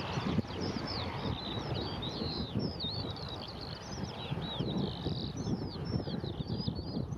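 Birds chirping and twittering in a rapid, continuous song, with gusts of wind buffeting the microphone.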